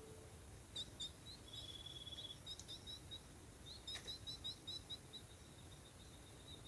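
Faint songbird chirps and short trills: a quick buzzy trill, then a run of about five short high notes a second in the second half.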